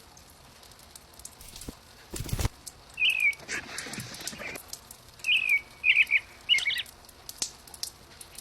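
Small birds chirping: one short chirp about three seconds in, then a quick cluster of chirps a couple of seconds later. A brief loud rustle or knock comes just over two seconds in.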